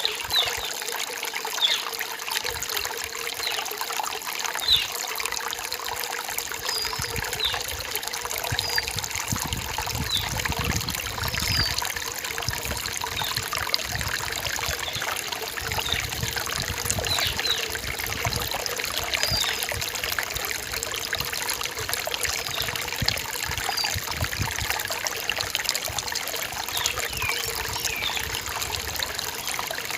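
Rain-forest stream trickling and babbling steadily, with short high bird chirps now and then.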